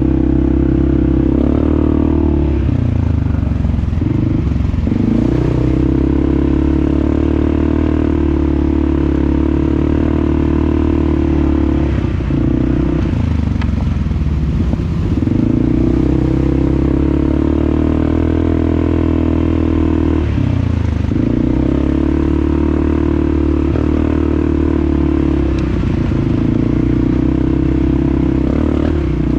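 Four-wheeler (ATV) engine running steadily while riding, its pitch dipping and coming back up several times as the throttle is eased off and reapplied.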